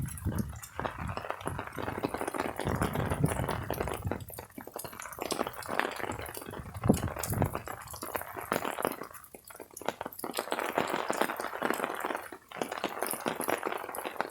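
Irregular wet splashing and dripping, rising and falling in loudness, with many small clicks.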